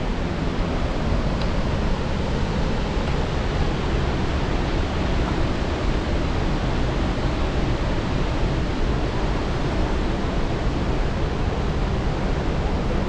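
Steady, even rush of a large waterfall, Sivanasamudra Falls on the Kaveri, heard close to the falls. It holds at one level throughout, heaviest in the low end.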